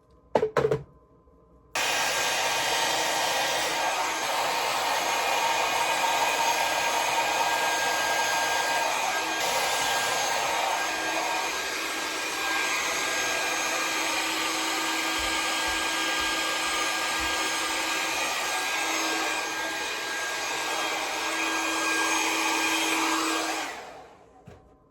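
Conair hair dryer with its nozzle attachment switched on about two seconds in, blowing steadily with a faint motor hum, then switched off about a second before the end. A short loud knock comes just before it starts.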